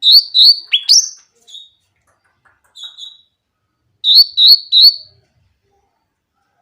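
Cucak ranting (black-headed bulbul) singing in short, sharp whistled notes in quick groups. Two notes and an upward slur open the song, softer notes follow, and three loud notes come about four seconds in.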